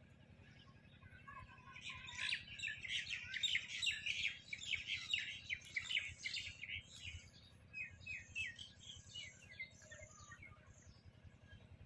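Small birds chirping in a rapid, busy chatter of short descending notes, starting about two seconds in and thinning to scattered chirps after about seven seconds.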